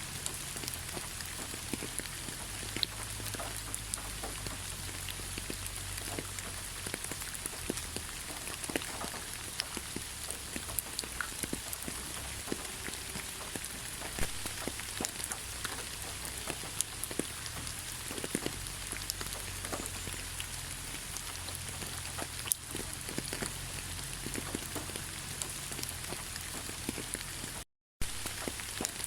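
Steady rain falling in a pine forest: an even hiss with many separate drops pattering close by. It cuts out to silence for a moment near the end.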